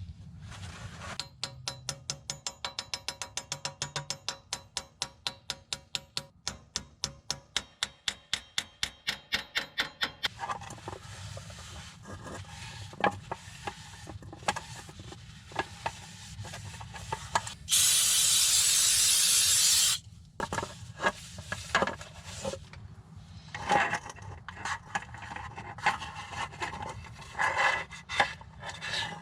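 Hand-tool work on a car's rear axle. A run of even, sharp clicks, about five a second, lasts about nine seconds. About two-thirds of the way in comes a loud two-second hiss, and scattered clicks and knocks follow.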